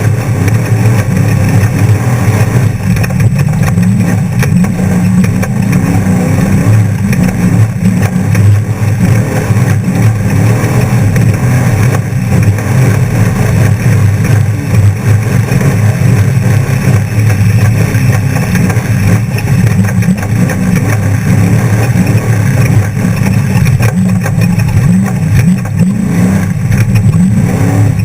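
Off-road trophy truck's engine running loud and steady under way, with the noise of the truck driving.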